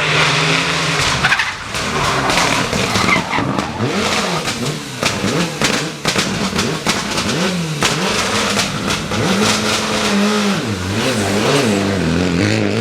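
Rally car engine revving hard and climbing through several quick gear changes, then lifting and blipping down near the end, over loud tyre and surface noise from the car sliding.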